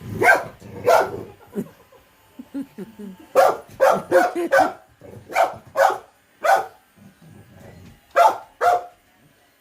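Terrier barking at a robot vacuum: about eleven sharp barks in uneven clusters, two near the start, a run of six in the middle, and two more near the end.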